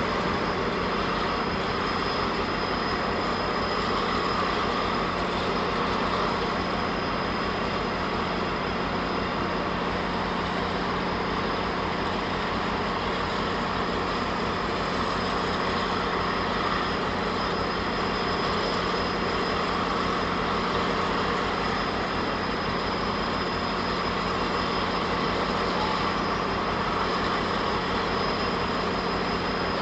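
GO Transit commuter train's diesel locomotive idling steadily, a constant engine hum with a steady high whine and no change in pace.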